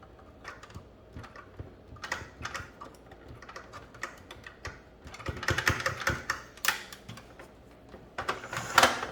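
Irregular clicks and clatter of hard plastic toy parts being handled, with a denser run of rattling a little past halfway and again near the end.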